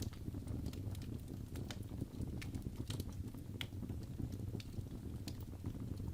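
Fireplace fire burning, with irregular sharp crackles and pops, one or two a second, over a low steady rumble of the flames.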